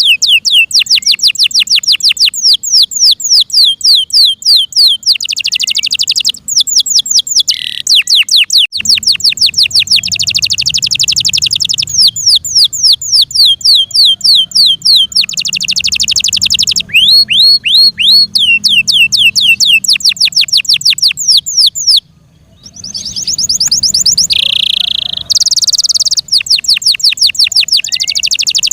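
F1 Yorkshire canary singing loudly: fast runs of repeated down-slurred notes alternating with dense rolling trills, with one brief pause about 22 seconds in.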